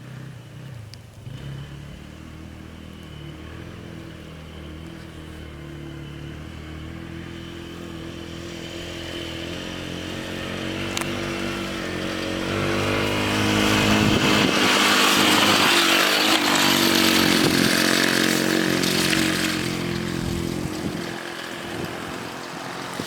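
90cc Polaris quad's small engine running as it rides closer, getting louder to a peak a little past halfway, then fading as it moves away.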